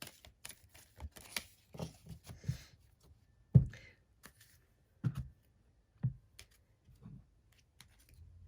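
A deck of oracle cards being shuffled and handled: quick papery flicks and clicks, with a few soft thumps as the deck knocks on the table, the loudest a little over a third of the way in.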